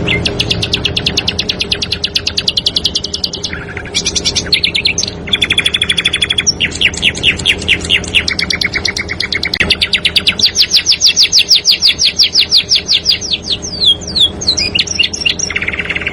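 A small songbird singing continuous rapid, tightly packed trills of repeated high notes, with the phrase changing in pitch and speed every few seconds. This is the fast rolling song used as masteran to teach caged competition birds.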